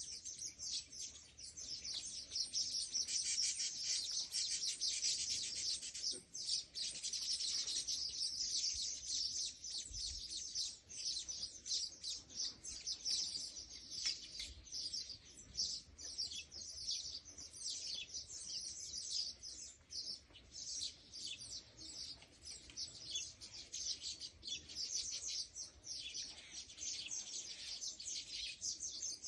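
Birds chirping rapidly and densely, high-pitched, with no break.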